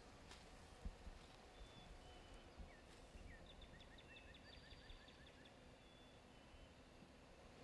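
Faint birdsong: a few thin, high whistled notes and, a few seconds in, a quick run of chirps repeated several times a second, over a low rumble with a few soft thumps.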